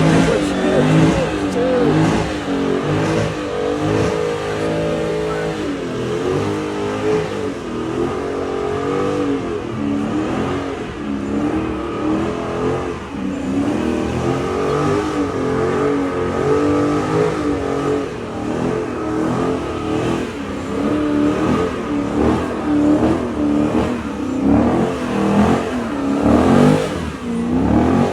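Car engines revving again and again, the pitch repeatedly climbing and dropping, with more than one engine sounding at once.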